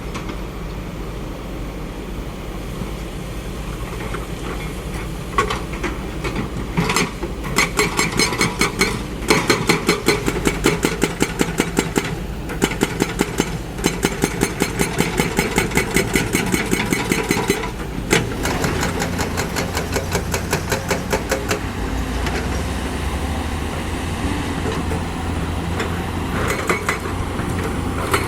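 Diesel engine of a tracked earthmover running, with a rapid, even metallic clatter that starts about five seconds in, stops about eighteen seconds in and comes back briefly near the end.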